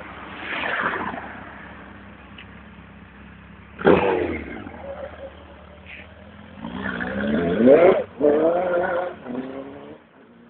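Suzuki GSX1400 inline-four engine revving as the motorcycle pulls away. There is a sharp burst of throttle about four seconds in. Later the pitch rises twice under acceleration, with a short break between the rises at a gear change, and the sound fades out near the end.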